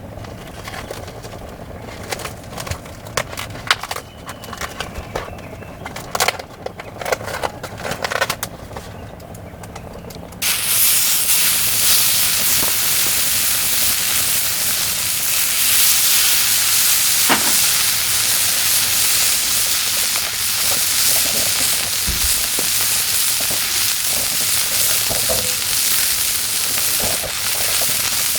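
Scattered clicks and knocks of handling, then about ten seconds in, meat laid on the hot plate over a kerosene heater starts sizzling loudly and keeps sizzling steadily.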